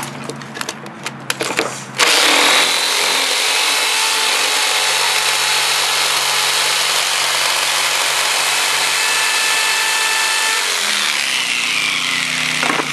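Power saw running steadily as it cuts plywood, starting about two seconds in after a few knocks, its pitch sagging near the end.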